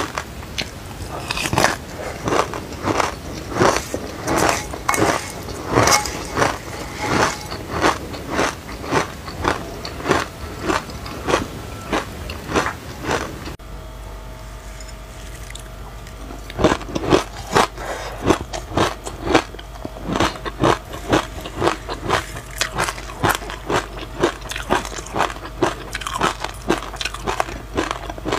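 Mouth crunching and chewing dry raw sesame seeds, sharp crisp crunches about two or three a second. After a brief pause about halfway through, the crunching resumes on a mouthful of anise seeds with passion fruit pulp.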